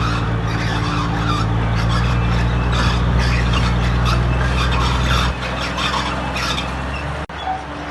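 Bulldozer's diesel engine running under load while its steel tracks squeal and scrape. The engine note drops about five seconds in, and the sound cuts out for an instant near the end.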